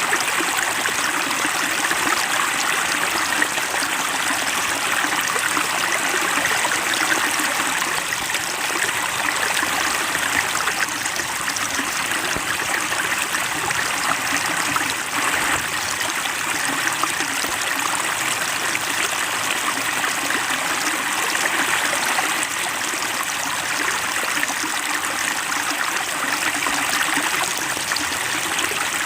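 Water trickling and splashing steadily into a fish pond, an even babble of falling water with no letup.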